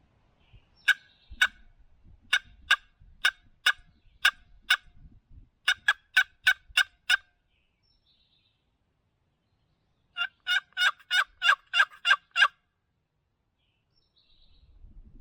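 Turkey yelping: a run of about fifteen sharp notes over the first seven seconds, speeding up toward its end, then after a pause a second, faster run of about ten yelps.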